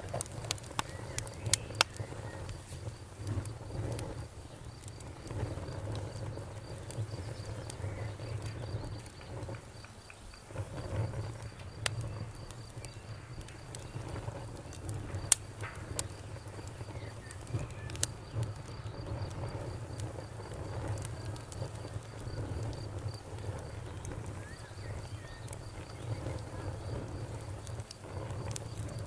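Campfire crackling, with scattered sharp pops over a low rumble, while an insect chirps in a steady high, pulsing line.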